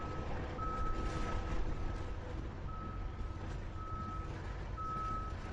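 Repeated electronic beeping: one steady tone sounding on and off about once a second, over a steady low rumble.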